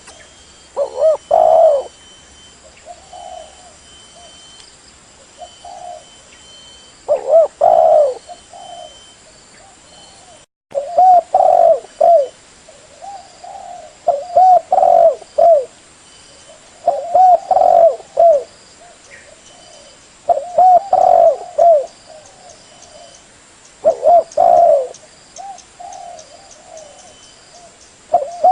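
Spotted dove (tekukur) cooing: repeated phrases of low, rounded coos, one phrase every two to four seconds. The sound cuts out for a split second about ten seconds in.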